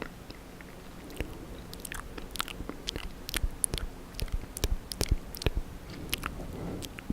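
Close-miked wet mouth sounds: irregular sharp clicks and smacks of lips and tongue, coming thickest through the middle.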